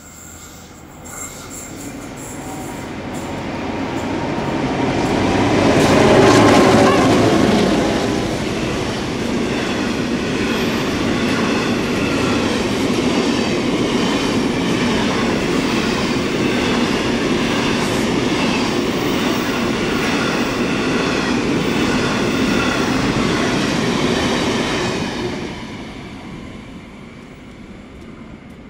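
A diesel-hauled grain freight train passing close by. The locomotives' engines build to the loudest point about six seconds in. Then a long rake of loaded grain hopper wagons rolls past with a steady, rhythmic wheel clatter over the rail joints, fading away near the end.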